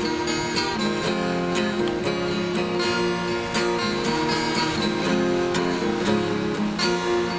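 Acoustic guitar strummed in a steady rhythm, playing chords as the instrumental opening of a song.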